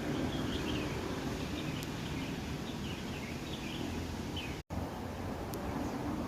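Small birds chirping in short, scattered calls over a steady low outdoor rumble, with a brief cut to silence a little before five seconds in.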